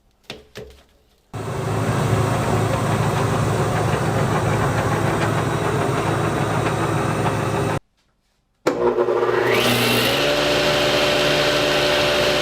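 General 12-inch cast-iron jointer, fitted with a new helical carbide-insert cutterhead, running steadily under power after a few light clicks. After a sudden break near the middle it starts up again, its whine rising in pitch as the cutterhead comes up to speed and then holding steady.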